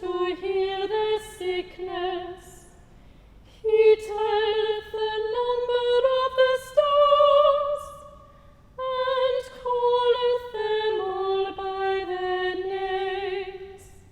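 A solo female voice singing slow, sustained phrases with vibrato, three phrases with short pauses between them.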